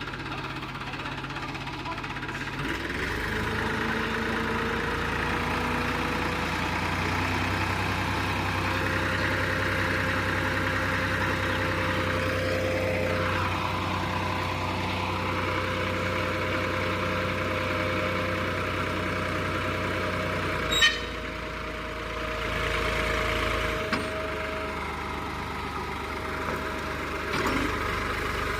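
Tractor diesel engine running steadily, its speed rising about three seconds in and briefly rising and falling again midway. A sharp knock sounds about 21 seconds in.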